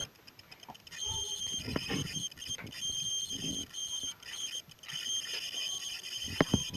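A steady high-pitched whine that cuts in and out over and over, with soft rustling and a few small knocks underneath.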